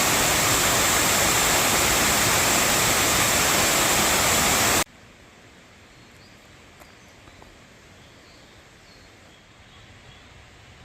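Loud, steady rush of water in a mountain stream that cuts off suddenly about five seconds in. Quiet outdoor ambience with a few faint, high bird chirps follows.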